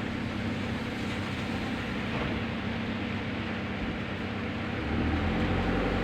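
Steady noise of a car driving on a wet, flooded road: an even hiss of tyres and water over a low engine hum, growing louder about five seconds in.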